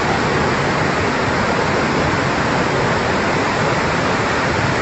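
Floodwater rushing past in a steady, loud, unbroken wash of noise.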